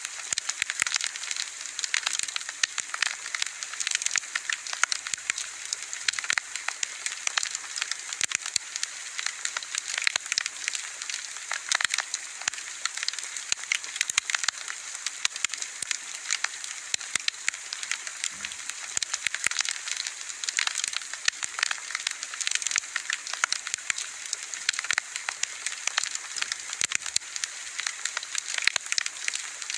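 Wood bonfire crackling steadily: a dense, irregular stream of sharp pops and snaps over a soft hiss.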